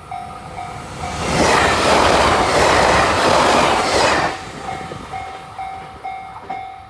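Japanese level-crossing bell dinging about twice a second as the Yakumo limited express train passes through the crossing. The train's rush of wheel and body noise, the loudest sound, swells about a second in and falls away about four seconds in, leaving the bell still ringing.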